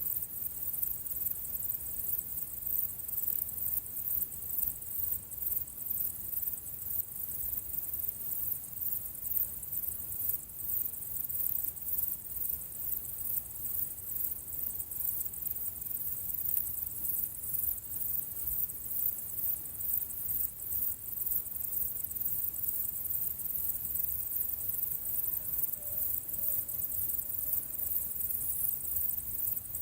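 A steady, high-pitched chorus of insects chirping in a rapid pulse, over a low rumble.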